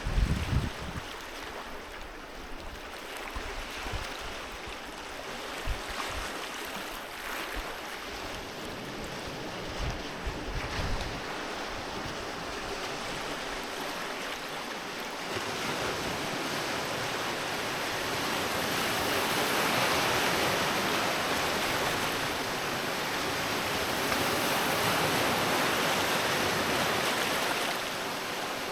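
Sea waves breaking and washing on a beach, swelling twice in the second half, with low gusts of wind buffeting the microphone in the first part.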